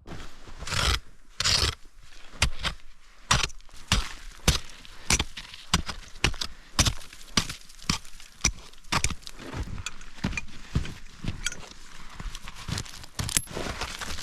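Footsteps in fresh snow at a steady walking pace, about two steps a second.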